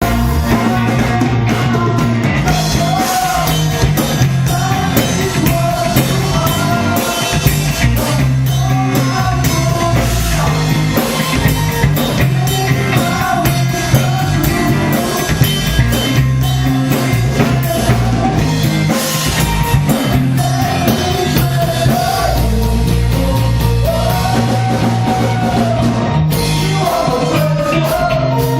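A band playing rock music live, with a singer over drum kit and bass.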